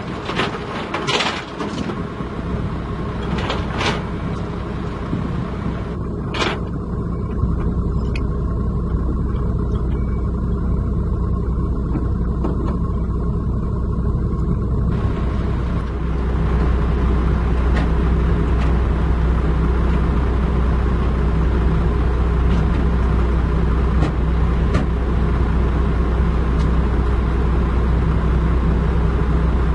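Heavy diesel engine running steadily with a deep rumble, growing louder in two steps, with a few sharp knocks in the first seven seconds.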